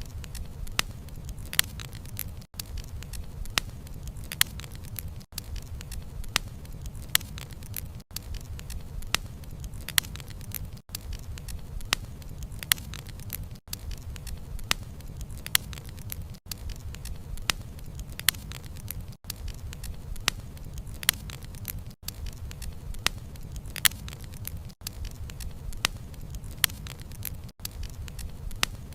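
Wood fire burning: a steady low rumble of flames with irregular sharp crackles and pops as the logs snap. Brief dips in the sound recur about every three seconds.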